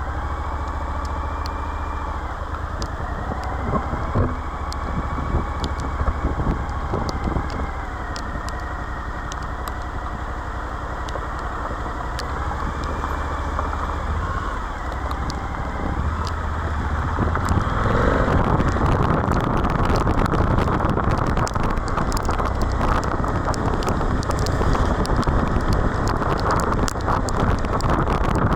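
Suzuki V-Strom 1050XT's V-twin engine running under way, its note rising and falling with the throttle. About 17 seconds in, a louder steady rushing noise builds and covers it.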